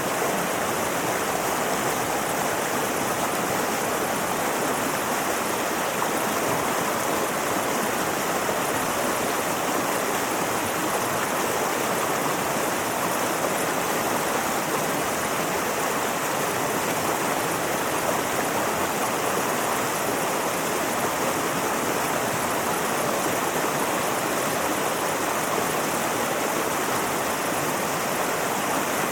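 Mountain river flowing, a steady, even rushing of water.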